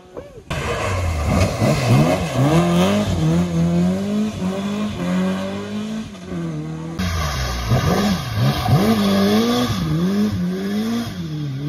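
Road-rally car engines being worked hard. The engine note climbs and drops sharply again and again with the throttle and gear changes, and changes abruptly about seven seconds in as a second car takes over.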